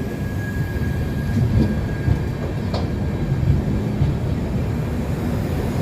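Netaji Express passenger train moving through the station, its coaches making a steady low rumble on the track, with a single sharp click about three seconds in.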